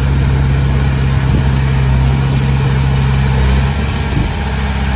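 Heavy diesel engine running steadily with a low drone. About three and a half seconds in, part of its note drops away and it gets a little quieter.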